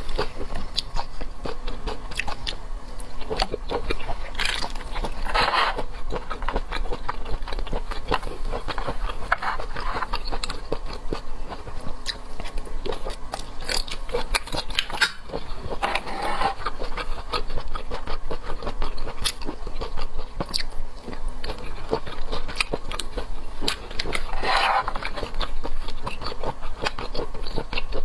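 A person eating seafood close to the microphone: chewing and biting with a dense run of small wet clicks, and several louder, longer sounds now and then.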